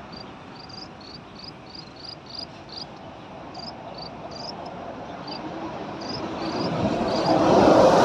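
Small birds chirping: short, high, upward-flicking notes about three a second, then more scattered. A broad rush of noise builds and becomes the loudest sound near the end.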